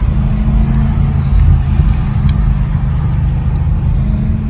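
BMW E92 M3's naturally aspirated V8 running steadily at motorway cruise, heard inside the cabin as a steady low drone with no change in pitch.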